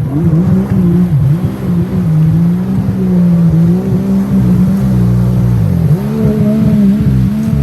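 Yamaha WaveRunner GP1300R jet ski's two-stroke three-cylinder engine running under way, its pitch rising and falling with the throttle. It drops off sharply twice, about a second and a half in and again near the six-second mark, then climbs back.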